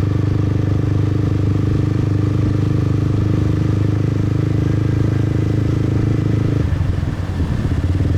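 Motorbike engine running steadily while riding, with a short break in its steady note about seven seconds in, as if the throttle eases off.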